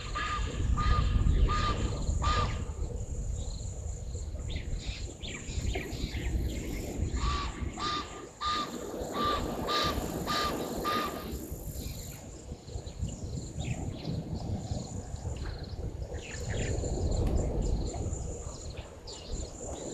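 A bird giving two runs of harsh, evenly repeated calls, about two to three a second: one at the start and another starting about seven seconds in and lasting several seconds. A steady high insect drone runs underneath.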